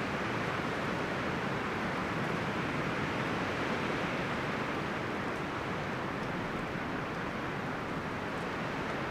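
Wind rustling through forest leaves and branches: a steady, even rush with no gusts or breaks.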